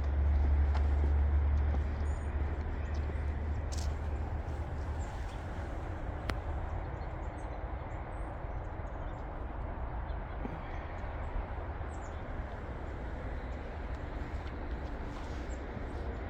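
Footsteps on a soft mulch trail over a steady outdoor background rumble, with wind buffeting the microphone for the first couple of seconds. A few faint, high bird chirps come through.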